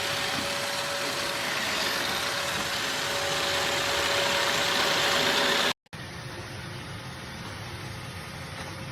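Robot vacuum running, a steady whirring with a faint whine. Just under six seconds in it cuts off abruptly and is replaced by a quieter steady hum.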